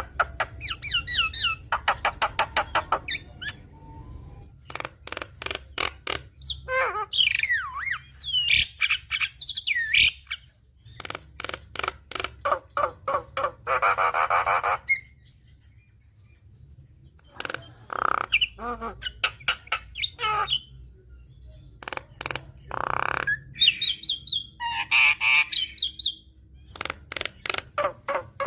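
Javan myna singing a varied, mimicking song: rapid trains of sharp clicks, gliding whistled notes and a harsh rasping call about halfway through, with short pauses between phrases.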